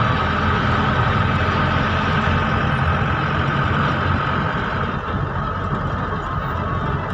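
Vehicle engine running steadily under way, with road noise from the tyres; the higher part of the noise eases slightly about five seconds in.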